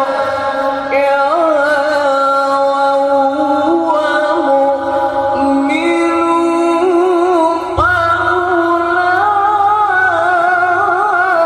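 A male qari's Quran recitation in melodic tilawah style, unaccompanied, holding long, wavering, ornamented notes; a new phrase starts about two-thirds of the way through.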